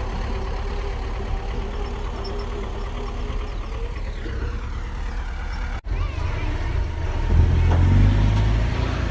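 Bulldozer's diesel engine running steadily. It breaks off for an instant about six seconds in, then comes back louder and deeper.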